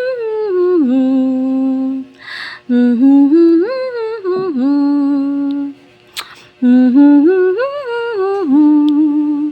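A woman humming a short wordless tune, the same rising-and-falling phrase three times with brief pauses between.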